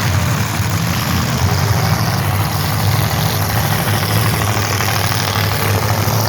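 Engines of old-iron demolition derby cars running steadily, a low rumble with a noisy wash over it.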